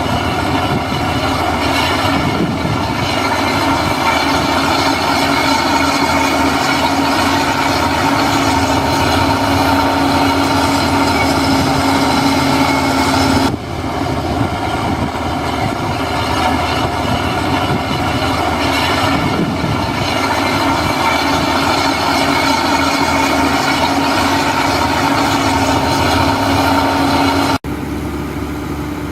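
Heavy diesel earthmoving machinery running steadily under load, with a steady whine over the engine. The sound breaks off abruptly about halfway through and again near the end.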